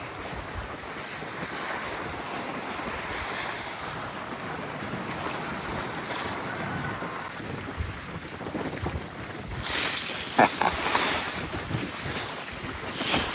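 Wind buffeting the microphone and waves washing along the hull of a sailboat rolling on a broad reach in about 17 knots of wind. Louder surges of water come about ten seconds in and again near the end.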